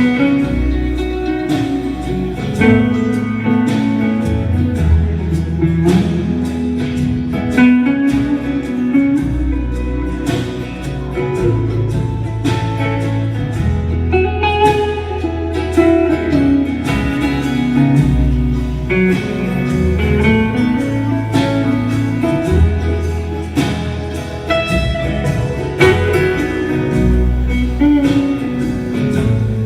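Live acoustic folk band playing an instrumental break: guitar and other plucked strings over a slow bass line, with no singing.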